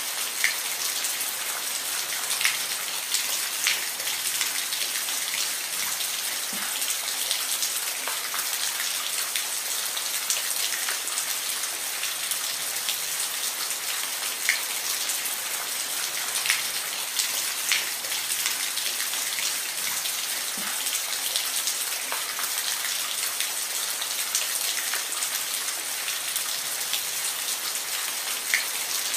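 Steady rain falling, a constant high hiss with scattered sharp drops ticking on a surface.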